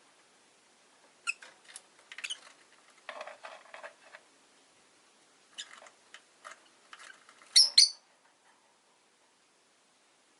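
Rosy-faced lovebirds chirping and chattering in short scattered bursts, with two loud shrill calls about three quarters of the way through.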